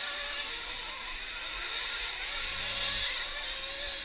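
Nitro RC race trucks' small glow engines buzzing steadily around the track, a high-pitched whine from several engines at once.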